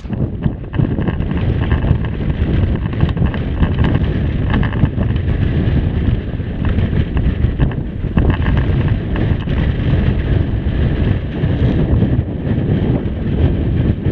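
Strong wind buffeting the microphone: a heavy, unsteady low rumble that rises and falls with the gusts.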